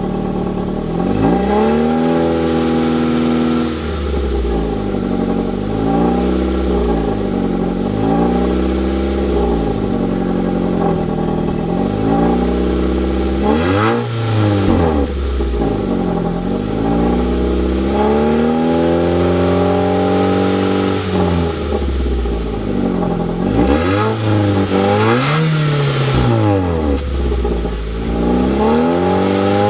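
Stock Nissan Sentra engine and exhaust being revved again and again, about a dozen times, each rev climbing and dropping back over a second or two.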